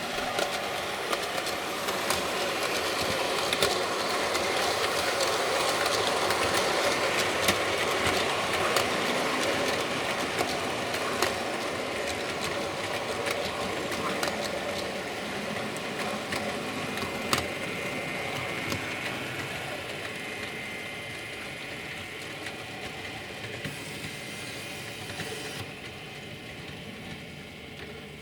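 Model Virgin HST train running on the layout's track: a steady motor whir and wheel noise on the rails, growing louder and then fading slowly as it moves away.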